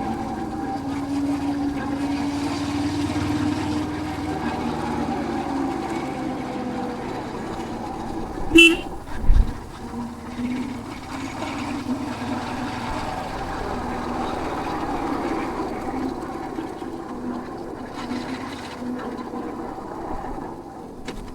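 Royal Enfield Hunter 350's single-cylinder engine running steadily under way. About eight seconds in there is a brief horn toot, followed by a low thump.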